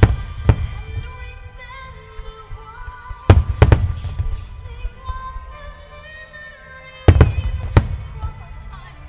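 Aerial firework shells of a starmine display bursting with loud booms and rumbling echoes: one just after the start, a pair a little after three seconds, and another pair about seven seconds in. Music plays steadily underneath.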